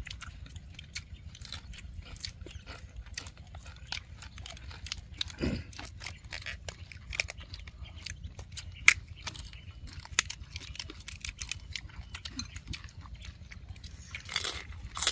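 People eating near the microphone: irregular chewing, lip-smacking and mouth clicks, with scattered light clicks and a sharp click about nine seconds in.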